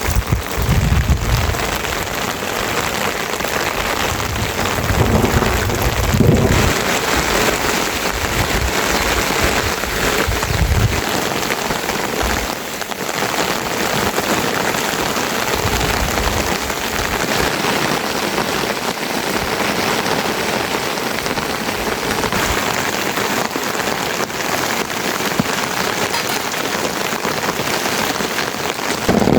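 Steady rain pouring down, with low rumbles now and then during the first ten seconds or so.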